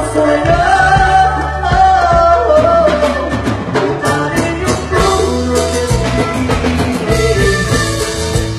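A live band playing loudly, with a sung melody over bass and drums.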